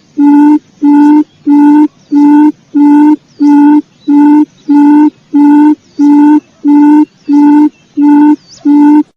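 Quail lure call: a loud, low hooting note repeated evenly, about three notes every two seconds, cutting off suddenly near the end.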